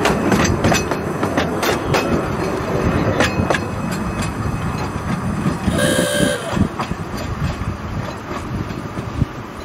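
Narrow-gauge train running, with a continuous rumble and a rhythmic clicking about twice a second. About six seconds in it gives one short toot of about half a second.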